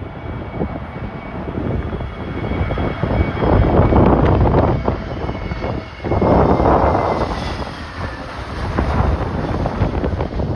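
Jet airliner engines whining with a steady high tone that drifts slightly lower. Strong gusts of wind buffet the microphone, loudest about four and about seven seconds in.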